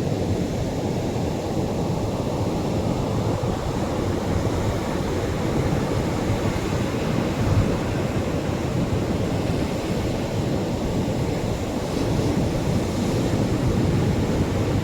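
Atlantic surf breaking on a beach shore: a steady, deep rush of waves with no single crash standing out, swelling slightly near the end.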